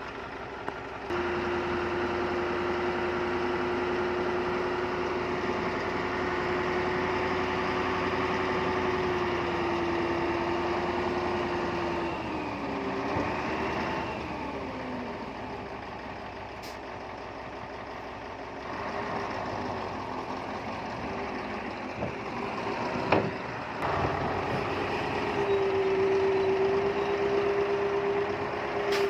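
Heavy diesel engine of earth-moving machinery running steadily; its pitch sags and wavers for a couple of seconds about halfway through. A few sharp knocks come in the last third.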